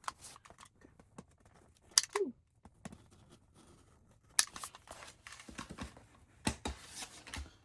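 Craft knife blade working through foam board: scratchy scraping strokes broken by sharp clicks about two, four and a half and six and a half seconds in, with a short falling squeak just after the first of them.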